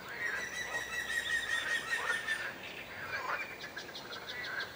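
Wild birds singing and calling: a long high held note for the first couple of seconds, some falling chirps, then a quick trill of about ten rapid notes near the end.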